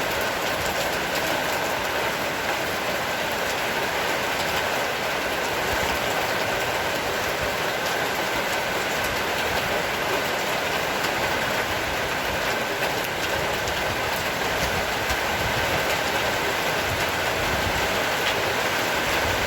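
Heavy rain pouring down steadily, an even, unbroken wash of noise.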